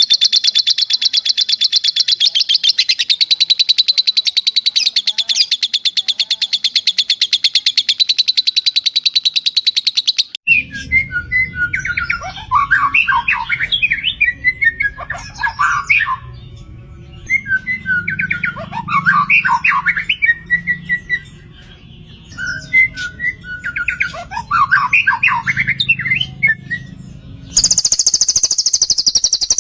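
Songbird recording of the kind used to train white-rumped shamas, mixing shama, cililin and lovebird song. A long, rapid high trill runs for about ten seconds, then three separate phrases of varied chirps and whistles follow over a low rumble, and a high buzzy trill starts again near the end.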